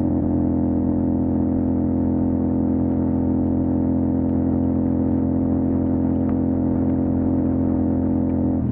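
CFMOTO 450 SR parallel-twin engine running through an MSH G6 full-system exhaust, held at steady revs with an even, unchanging note. It eases off slightly right at the end.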